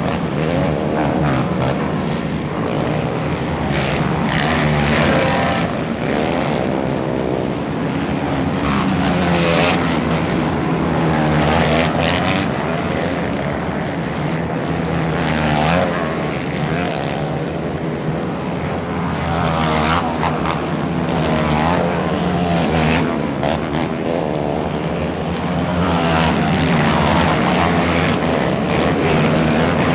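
Off-road racing vehicles' engines running hard and loud without a break, their pitch rising and falling over and over as they accelerate and lift off around the course.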